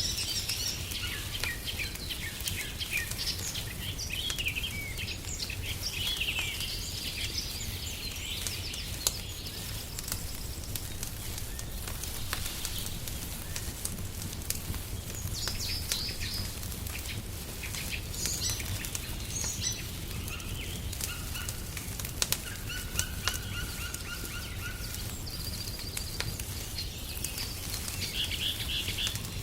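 Songbirds chirping and trilling on and off throughout, over a wood fire crackling with frequent small sharp pops and a steady low rumble.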